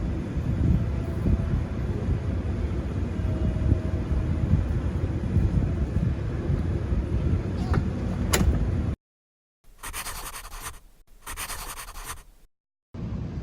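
Wind buffeting the microphone with a low rumble. It cuts off suddenly about two-thirds of the way in, giving way to two short hissy noises about a second long each, and returns near the end.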